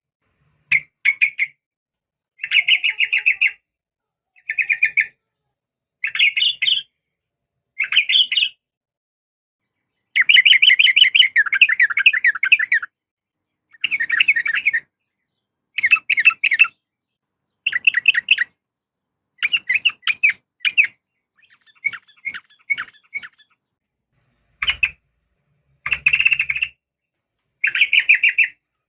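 Yellow-vented bulbul (trucukan) calling in short bubbly, chattering phrases repeated every second or two, with a longer run of chatter about ten seconds in. The recording is sold as a female calling to a male.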